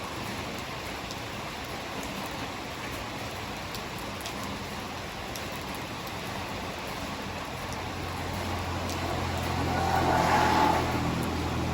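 Steady heavy rain, with a motor vehicle passing through it: a low engine hum swells from about eight seconds in, is loudest near ten seconds, then fades.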